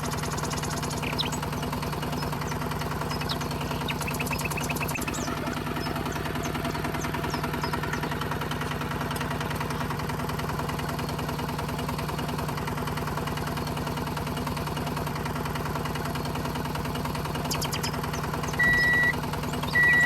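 A small motor running with a steady, even hum. Near the end come two short high-pitched beeps.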